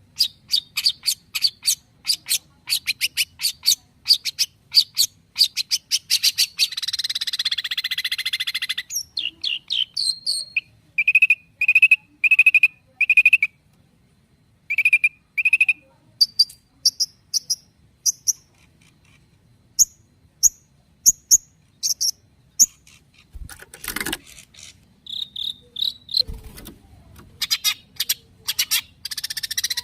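Long-tailed shrike (cendet) singing a varied, excited song: fast trains of sharp chips, a harsh buzzy rattle, and a run of five even whistled notes, with other high notes mixed in, typical of its mimicry-filled song.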